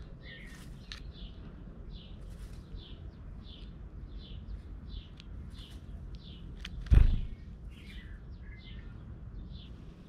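A small bird chirping, short high notes repeated about twice a second over a low steady outdoor rumble. One loud thump comes about seven seconds in.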